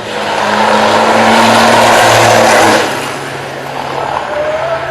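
A motor vehicle going by loudly, engine and road noise with a steady engine note; it builds over the first second, holds, then drops off sharply just under three seconds in.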